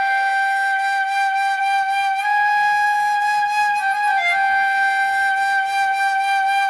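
Flute melody holding one long, steady note, with a short dip to a lower note about four seconds in before it returns to the held note.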